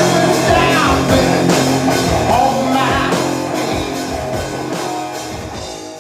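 Live rock band playing, with singing, electric guitar and drums, fading out over the last few seconds.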